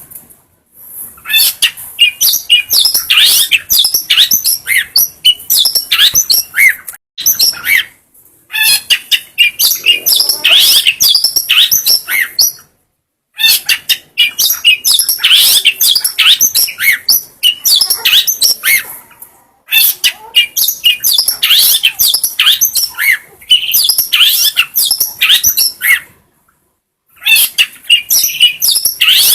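Long-tailed shrike (cendet) singing a fast, dense run of high chirps and sharp notes, in bursts of several seconds broken by short silences.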